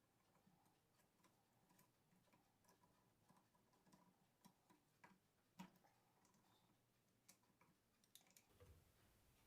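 Near silence, with faint scattered small clicks and taps, one a little stronger about halfway through.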